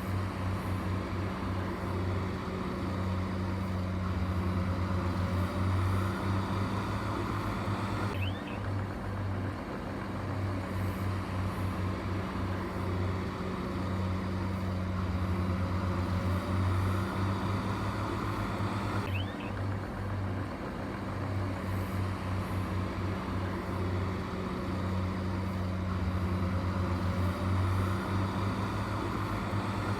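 Heavy machine's engine running steadily at a low drone, the same sound repeating about every eleven seconds.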